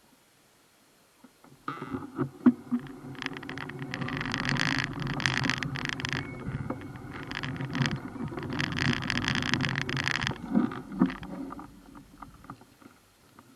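Rumbling, rattling riding noise of a bicycle picked up by a bike-mounted camera, starting about two seconds in. Two stretches of louder hissing clatter come partway through, and the noise fades out near the end.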